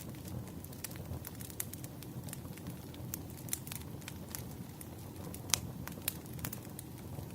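Wood fire crackling: a steady low rumble of burning logs with irregular sharp pops and snaps, the loudest about five and a half seconds in.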